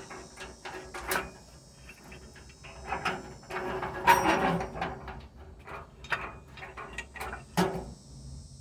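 Irregular clicks, knocks and rattling of metal parts being handled as someone works at the ride-on train's drive chain, with a busier scraping rattle about halfway through and a sharper knock near the end.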